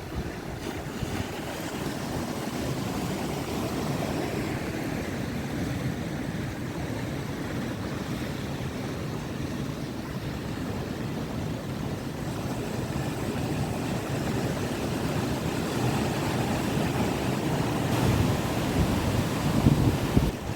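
Rough monsoon sea: waves breaking and washing continuously in strong wind, with wind buffeting the microphone. The surge builds louder near the end.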